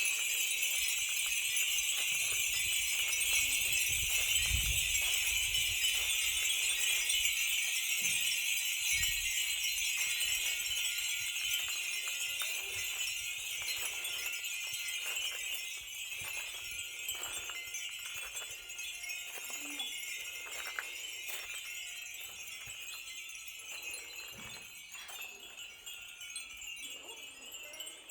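Many Japanese wind bells (fūrin) tinkling together in the breeze, a dense continuous jingling that slowly grows quieter toward the end.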